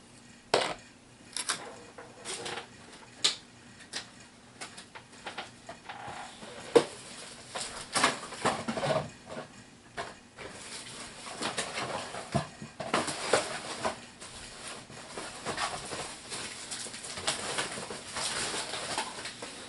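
Small hard plastic clicks and clatter of HeroClix miniatures and their packaging being handled, with denser crinkling of plastic wrapping from about ten seconds in.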